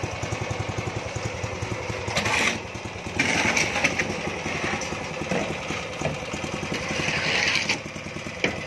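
Small petrol engine of a mini concrete mixer running steadily with a rapid low pulse. Several bursts of gritty hiss come over it, about two seconds in, from about three to four seconds, and again near seven and a half seconds.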